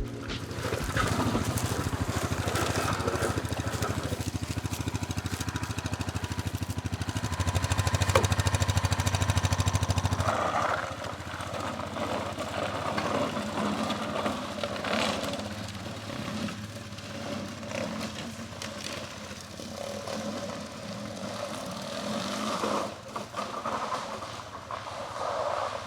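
An engine running steadily with an even low hum for about ten seconds. Then the low hum drops away and a rougher, uneven noise carries on.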